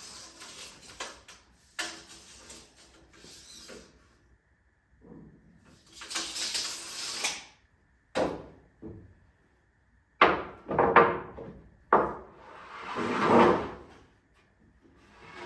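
Handling sounds at a woodworking bench: scattered knocks and scrapes of wood, with a few sharp knocks past the middle and a longer scraping swell near the end.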